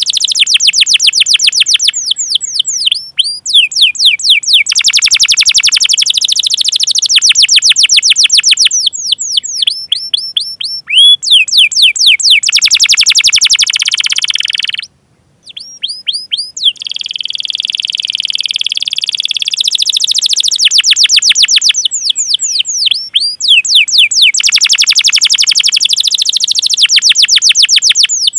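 Domestic canary singing a long rolling song: fast runs of repeated sweeping chirps (cuit-cuit calls) and trills, dropping out briefly about halfway through.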